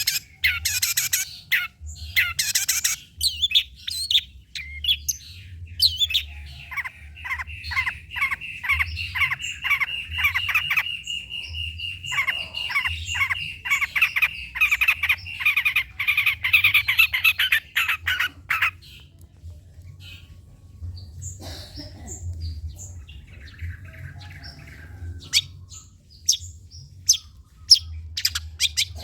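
Long-tailed shrike (cendet) singing a rapid chattering song. In the middle is a long run of fast repeated notes over a steady high tone. The bird goes quieter and sparser for several seconds after that, then chatters again near the end.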